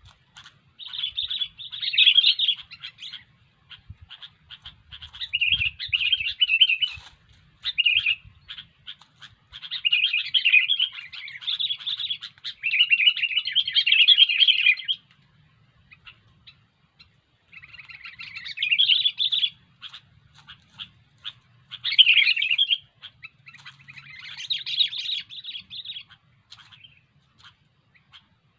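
Sooty-headed bulbuls calling: bouts of loud, bubbling, chattering phrases, one to five seconds long, repeated with short pauses.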